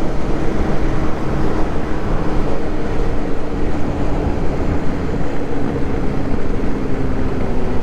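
Motorcycle engine running steadily while riding, with wind rumbling on the microphone; the engine note eases slightly lower toward the end.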